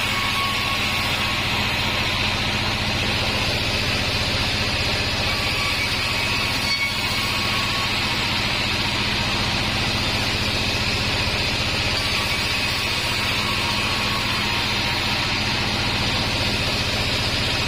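Sawmill bandsaw (a 36-inch Taiwanese band sawmill) running steadily, a low motor hum under a constant hiss, with no break or change in pace.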